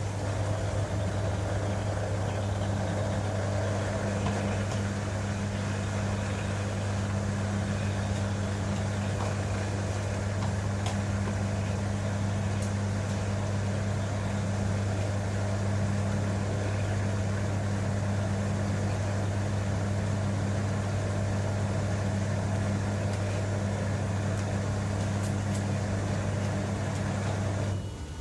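LG TurboDrum WT-R852 top-loading washing machine running with a steady low hum that stops abruptly near the end.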